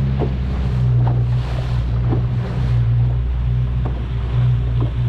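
Boat motor running steadily with a low hum, with wind on the microphone and water noise around the hull. A few light knocks sound through it.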